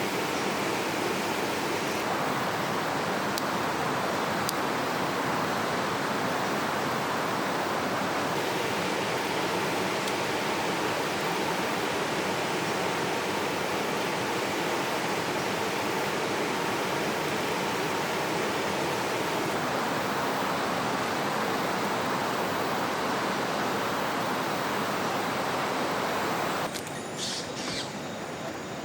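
Steady rush of flowing river water. About 27 seconds in it cuts off suddenly to a quieter background with a few faint clicks.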